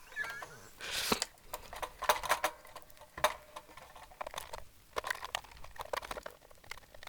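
Small clicks, taps and scrapes of hand work on guitar parts, scattered irregularly, as a pickup is refitted with its springs and screws.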